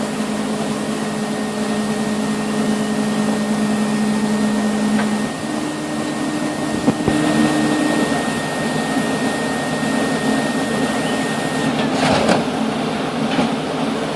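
CNC machine running: a steady machine noise with motor whines held at one pitch, which step to a new pitch about five seconds in and again around eight seconds. A high whine cuts off near twelve seconds, followed by a few sharp clicks.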